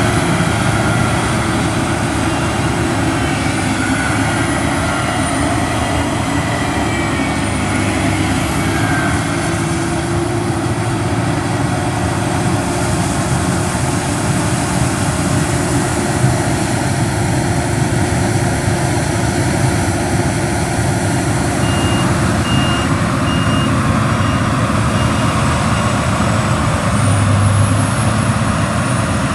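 Heavy harvest machinery running steadily under load. About three-quarters of the way in, a row of short, evenly spaced beeps sounds, and a faint high whine rises and falls a few times.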